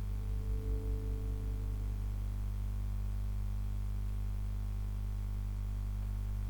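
A steady low hum, with a few held musical tones fading out over the first couple of seconds.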